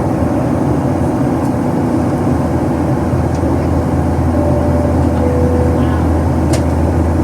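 Steady engine and airflow noise inside the cabin of a Boeing 737-800 in its climb, a loud, even drone heaviest in the low end, from its CFM56-7B turbofans.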